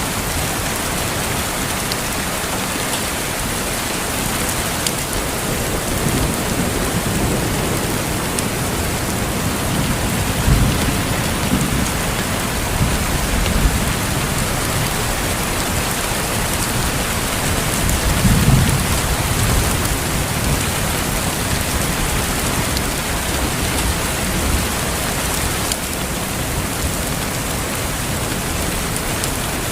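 Steady, even rainfall, with a few low rolls of thunder swelling under it, the strongest about two-thirds of the way through.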